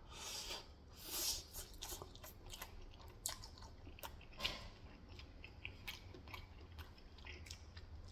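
Close-up chewing of Korean fried chicken: irregular soft crunches and wet mouth clicks, with a louder bite about a second in.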